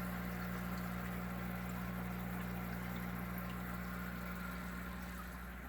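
Aquarium filter pump humming steadily over a faint wash of moving water. It gets slightly quieter near the end.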